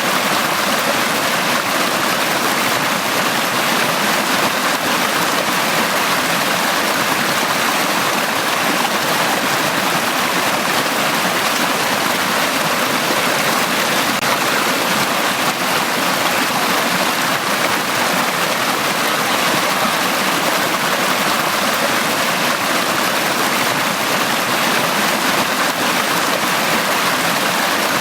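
Valley stream water flowing, a steady, unbroken rush of water.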